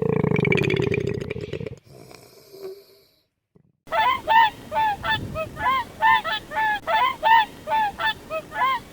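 Animal calls: first a loud, low, rough call lasting under two seconds, then after a short pause a fast series of short repeated calls, each rising and falling in pitch, about three a second.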